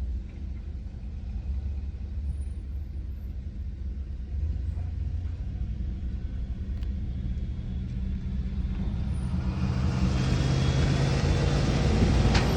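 Truck driving: steady low engine and road rumble, with a louder rush of noise building from about nine seconds in.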